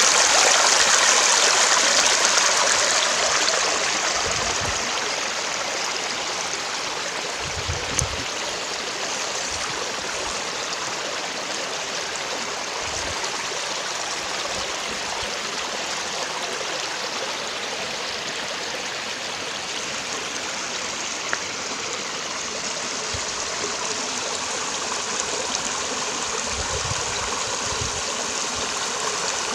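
Water of a stream running, a steady rushing and gurgling, a little louder for the first few seconds, then even.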